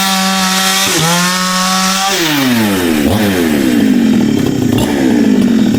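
Chainsaw running at full throttle while cutting wood, its pitch dipping briefly as the chain bites. About two seconds in, the throttle is let off and the revs fall away steadily.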